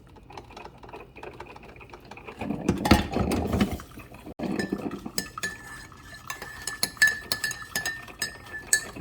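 Spoon clinking against a coffee mug while stirring, many quick clinks over a faint steady ringing from about five seconds in. A brief louder noise comes about three seconds in.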